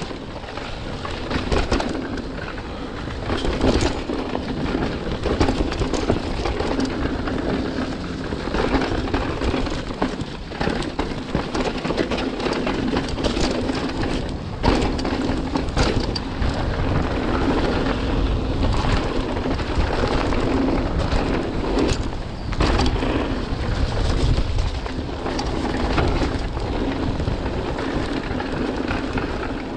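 Mountain bike descending a wet, rough trail, heard close up: a continuous rush of tyre and wind noise with frequent knocks and rattles from the bike over bumps.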